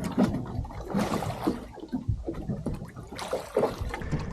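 Water sloshing and splashing against a small boat in short, uneven bursts.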